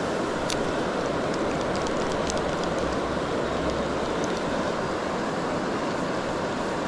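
Steady rush of flowing river water, with a couple of faint clicks.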